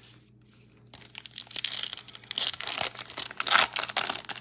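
Crinkling and tearing of plastic wrapping as a sealed trading-card box is opened. It starts about a second in and goes on as a dense crackle.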